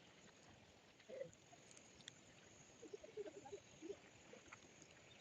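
Near silence: faint outdoor background, with a few faint short sounds about a second in and again between three and four seconds in.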